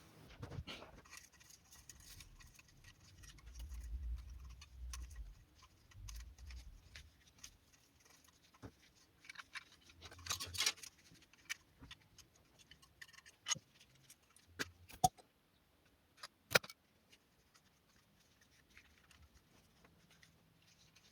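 Faint clicks, ticks and small metallic scrapes of soft steel tie wire being handled and fitted as lock wire on an oil-pan drain plug, with a few dull low thumps in the first seconds and some sharper clicks later on.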